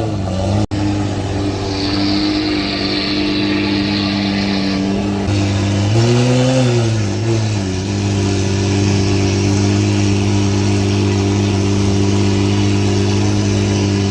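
A car engine running at a steady low speed, with one brief rev that rises and falls about six seconds in.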